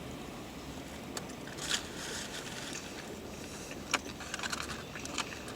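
Light crinkling and a few sharp clicks from handling fast-food packaging, over a steady low rumble.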